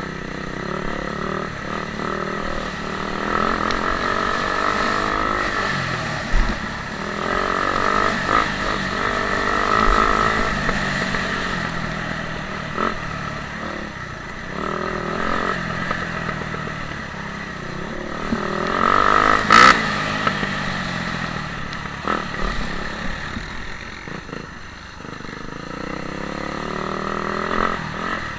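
Motocross bike engine revving up and down repeatedly as it accelerates and backs off. A single sharp knock about twenty seconds in is the loudest sound.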